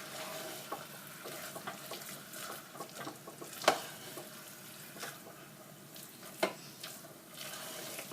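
Chicken pieces frying in spice masala in a pan, stirred with a spoon: a steady sizzle with scattered scrapes and clicks, and a sharp knock of the spoon against the pan a little past halfway, another about two-thirds of the way in.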